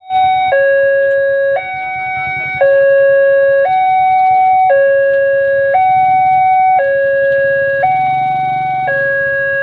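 Railway level-crossing warning alarm sounding a loud two-tone hi-lo signal, switching pitch about once a second, over a low rumble.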